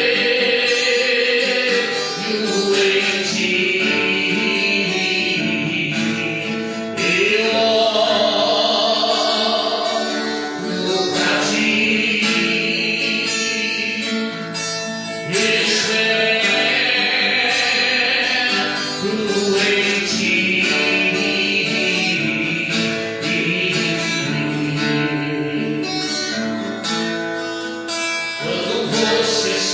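Gospel worship song: a voice singing long held lines over plucked guitar accompaniment.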